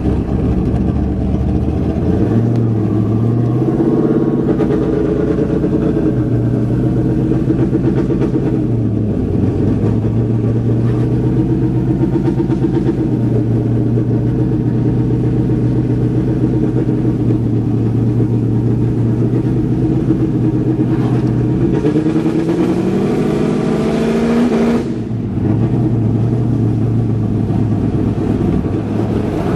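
Vehicle engine running, its note mostly steady with small dips and wavers. About three-quarters through the pitch rises, cuts out briefly, then settles back. It is the engine the uploader reports as misfiring and stumbling.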